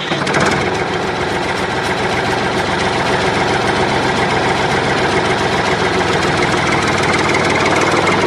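A motor running steadily with a fast, even chatter, like an engine idling.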